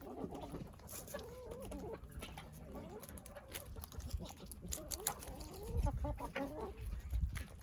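Chickens clucking and murmuring at close range, with scattered small clicks and a low rumble on the microphone.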